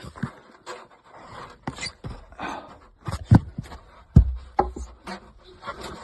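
Knocks and thumps of a person hauling himself up through a cramped attic hatch onto the joists, with two heavier thumps about three and four seconds in, and hard breathing.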